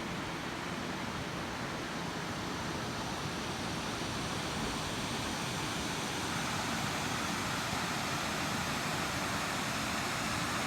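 A waterfall and mountain stream rushing in a steady, even roar, growing a little louder and brighter about six seconds in.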